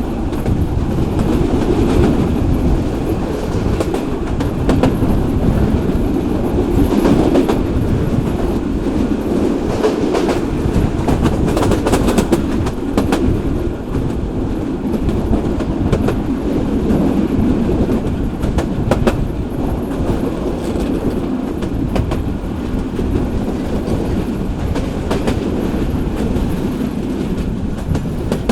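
Local passenger train running along the track: a steady rumble of the carriages with irregular clicks of the wheels passing over rail joints.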